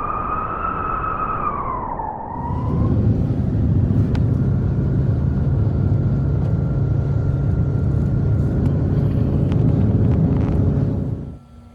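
Storm wind whistling in a wavering tone that rises and falls, then from about two seconds in a loud, steady low rumble of wind buffeting, which drops off sharply near the end.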